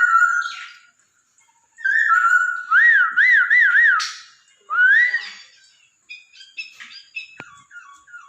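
Poksay Hongkong laughingthrush song: loud, clear whistled phrases with a quick run of rising and falling slurred notes, broken by short pauses, then softer, choppier twittering near the end.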